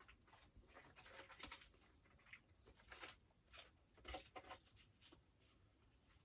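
Near silence with faint scattered clicks and rustling.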